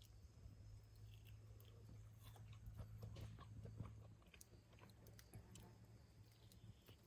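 Near silence: faint scattered clicks and crackles over a low steady hum.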